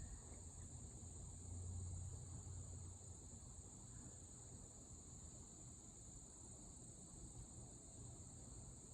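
Faint, steady high-pitched insect trilling, like crickets, over a low hum from the Emerson K55 ceiling fans running at medium speed. The hum swells briefly a couple of seconds in.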